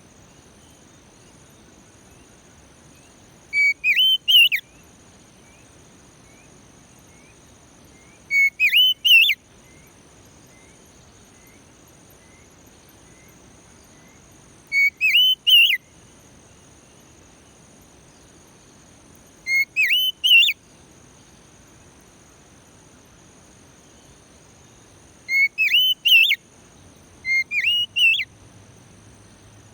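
Oriental magpie-robin (kacer) song: short loud whistled phrases of three or four quick rising notes, about a second long, repeated every five or six seconds, six times in all.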